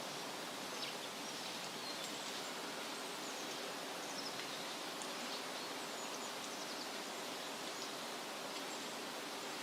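Woodland ambience: a steady rustle of wind through leaves, with small birds chirping faintly and intermittently throughout.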